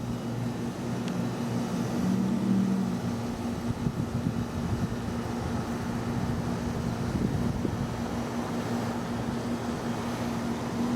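Steady low machine hum with a constant low tone.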